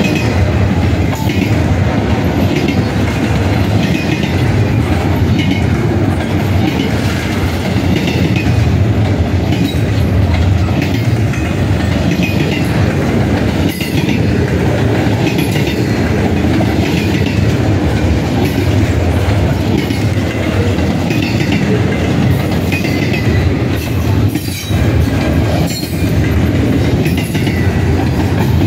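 Double-stack intermodal container train's well cars rolling past close by: a loud, continuous rumble of steel wheels on rail, with irregular clicks and knocks as wheels cross rail joints.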